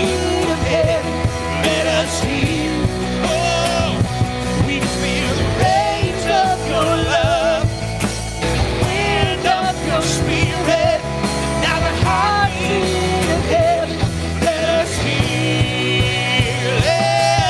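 Live worship band playing a rock song: a full band sound with a wavering, sustained lead melody line over steady low accompaniment and drum hits.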